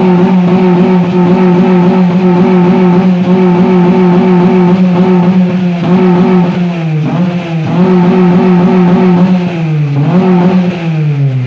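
Modified Honda Civic's four-cylinder engine revved through an aftermarket large-can 'fart can' exhaust: it climbs quickly and is held at high revs, dipping briefly a few times, then falls back near the end.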